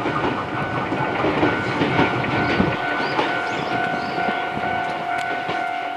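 Ryutetsu 2000 series electric train running along the track, its wheels clattering over the rails, with a steady ringing tone held underneath.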